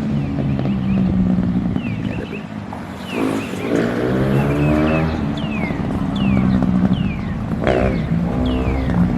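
Honda CRF150R dirt bike's four-stroke single-cylinder engine being ridden: its pitch climbs under throttle and drops again twice, around three and eight seconds in.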